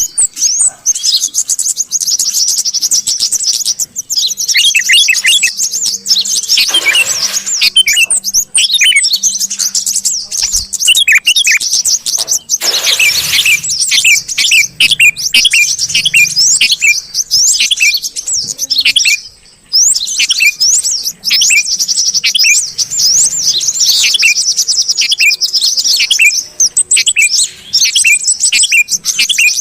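Dense, continuous chatter of bulbuls: a mixed bird-lure track of yellow-vented bulbul and sooty-headed bulbul calls, with many quick high chirps and trills overlapping. Two brief hissing rushes cut through, and the sound drops out for a moment a little after the middle.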